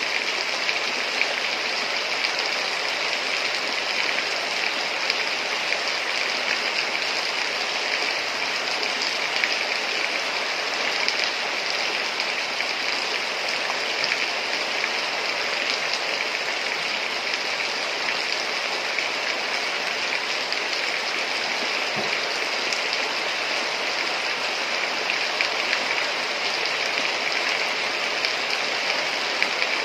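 Heavy rain falling steadily: a dense, even hiss of water with fine scattered drop ticks, unchanging throughout.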